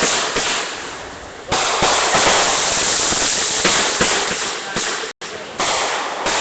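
Consumer fireworks going off in a rapid barrage of crackling bangs, growing denser about a second and a half in. The sound cuts out for an instant near the end.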